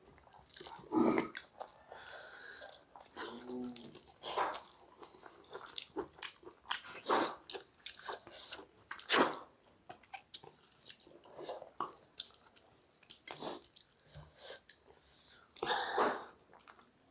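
Close-up eating sounds: two people chewing and smacking mouthfuls of rice and vegetable curry eaten by hand, with irregular small clicks and smacks. Near the end there is a louder burst as one drinks from a steel tumbler.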